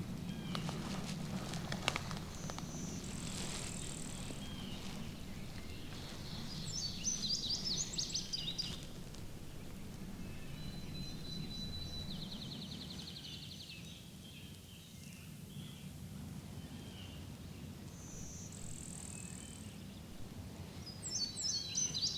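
Songbirds singing: high thin whistled notes, quick warbled phrases and buzzy trills, repeating every few seconds over a steady low background rumble.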